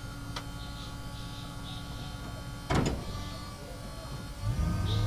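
Backhoe loader engine running steadily, with one loud clank a little under three seconds in. From about four and a half seconds the engine note gets deeper and louder.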